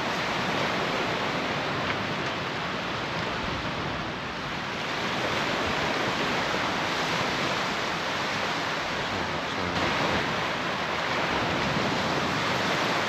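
Surf washing onto the beach: a steady rush of breaking waves that swells a little about five and ten seconds in.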